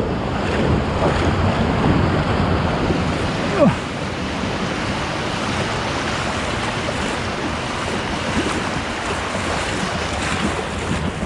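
Breaking surf and rushing sea water around a kayak in shallow waves, with wind buffeting the microphone. A short falling squeak about three and a half seconds in.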